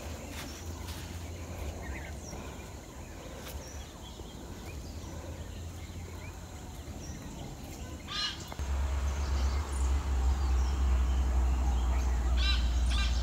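Birds calling: scattered short chirps, with a louder call of several quick rising-falling notes about eight seconds in and again near the end. Underneath is a low rumble that gets louder about two-thirds of the way through.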